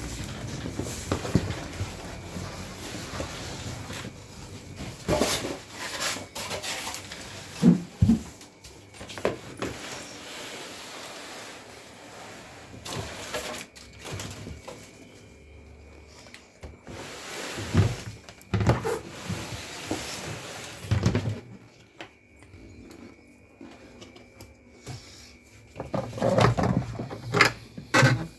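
Irregular knocks, bumps and rustling, the sound of a washing machine and its packaging being handled during unboxing, with the loudest knocks about eight seconds in and near the end.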